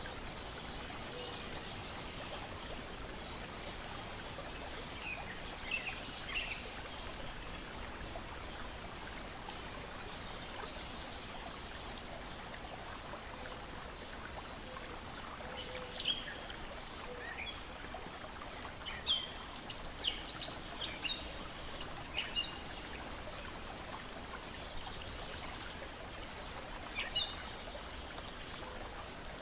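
Steady wash of water, small lake waves lapping and splashing, with songbirds chirping over it in short bouts, busiest in the middle of the stretch and again near the end.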